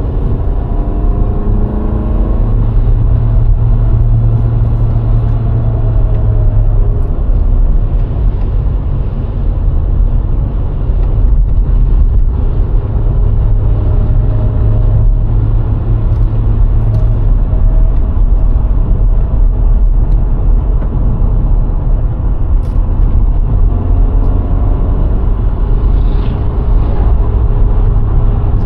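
VW Golf IV's 1.6-litre four-cylinder petrol engine and tyres under way on the road: a steady low rumble of road and wind noise, with the engine note gliding up and down a few times as the car changes speed.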